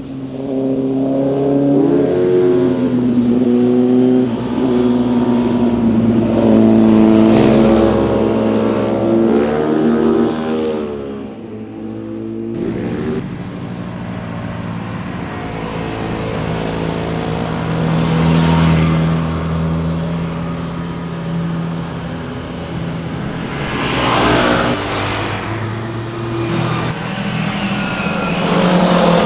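Sport motorcycle engines revving as bikes ride past one after another, the exhaust pitch rising and falling with throttle and gear changes. The sound changes sharply about twelve seconds in, as a different bike takes over.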